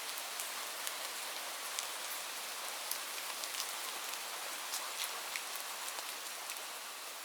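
Light rain falling steadily: a soft, even hiss with many sharp drop ticks on a surface scattered through it.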